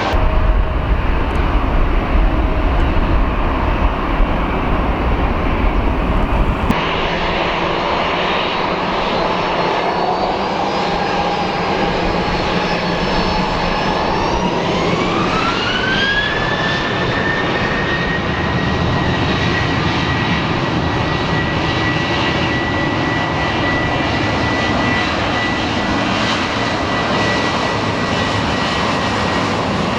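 Jet engines of a Boeing 737-800 (CFM56) running and then spooling up for take-off: about halfway a whine rises steeply and levels into a steady high tone at take-off thrust. At the start, a deep rumble from another jet ends abruptly.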